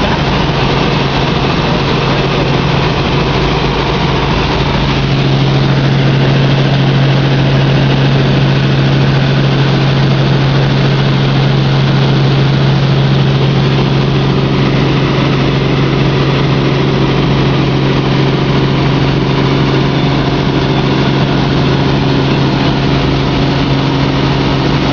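Helicopter in flight heard from inside the cabin: a loud, steady drone of engine and rotor with a low hum, getting slightly louder about five seconds in.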